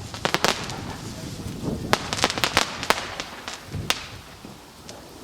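Fireworks going off: a rapid string of sharp cracks and bangs at irregular intervals, several in quick succession near the start, a tighter cluster around the middle, and a last single crack about four seconds in.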